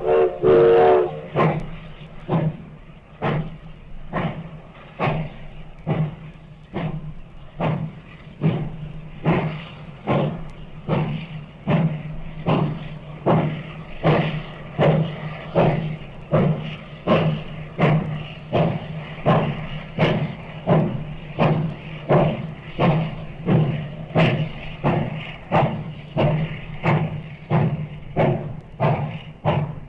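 Steam locomotive working under load: its whistle cuts off about a second in, then sharp exhaust chuffs come in a steady rhythm, quickening from about one a second to nearly two a second as it picks up speed.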